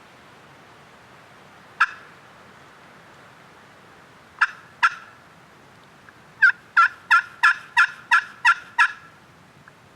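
Turkey call worked by a hunter, sounding hen yelps: a single yelp, then two, then a run of eight yelps at about three a second, loud and close.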